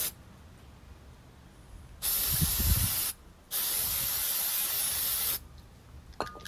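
Pressurized spray hissing in two bursts, the first about a second long and the second about two seconds, with a short click near the end.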